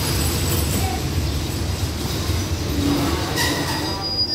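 Coaches of a parcel train rolling slowly alongside the platform as the train comes to a stop: a steady low rumble of wheels on rail, with a thin high squeal near the end.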